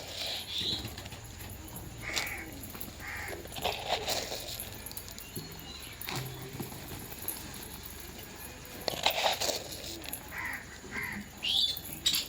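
Birds calling: short, scattered calls, some of them harsh, with occasional sharp clicks and knocks in between.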